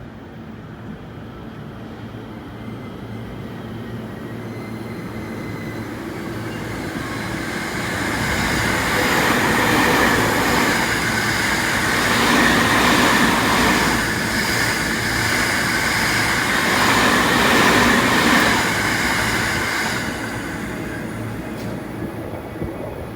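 JR East E217 series electric train passing through a station at speed: wheel-on-rail noise builds as it approaches, stays loud with steady whining tones for about twelve seconds as the cars go by, and drops off sharply near the end as the last car clears.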